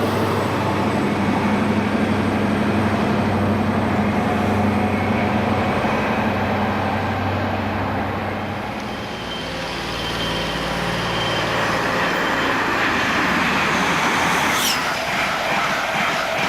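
Train at the station: a steady low engine hum that eases off about nine seconds in, then a rising rush of noise from about twelve seconds, with a sharp click near the end.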